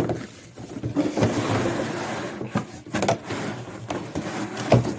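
Handling noise from unpacking a vacuum cleaner: rustling packaging with several sharp knocks as the machine and its parts are pulled from the box.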